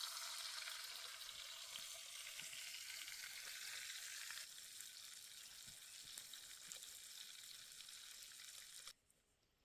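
Food sizzling and frying in a cast iron skillet over a campfire, a steady hiss that gets quieter about halfway through and cuts off suddenly near the end.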